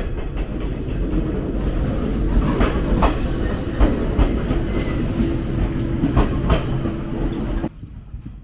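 Jōshin Dentetsu electric train running on the line: a steady low rumble with wheels clicking over rail joints, some clicks in quick pairs. The sound drops off suddenly near the end.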